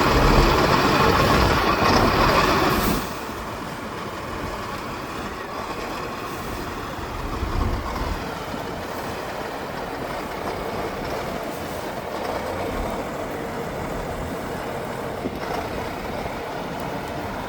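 Heavy off-road trial truck engine running under load, loud for the first three seconds, then dropping suddenly to a quieter, steady engine sound.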